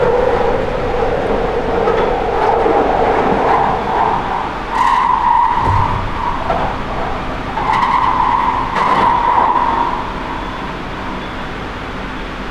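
London Underground 2009 stock train running at speed in a tunnel, a steady rumble and motor tone, with a high squeal from the wheels twice, about five seconds in and again from about eight to ten seconds in.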